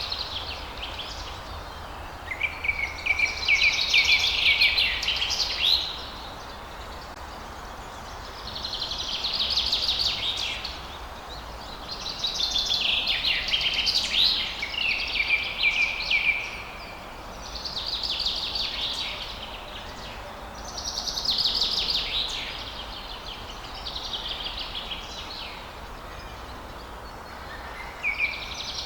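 A songbird singing repeated phrases of rapid high notes, each phrase two to five seconds long with short pauses between, about seven phrases in all. A steady low background hiss runs underneath.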